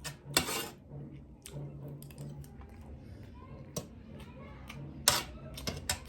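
Eating sounds close to the microphone while working through a crab: sharp cracks and clicks of shell being broken or bitten, a few times, between quieter chewing.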